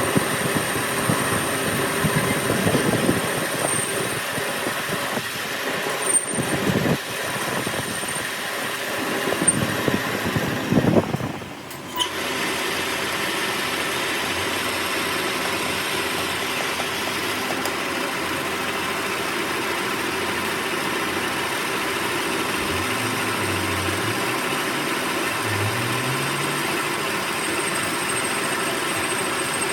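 Workshop machinery running: an uneven, clattering stretch, then after a break about twelve seconds in, a steady machine hum.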